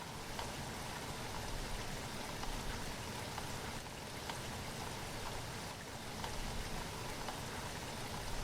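Steady rain falling, an even hiss full of small drop ticks.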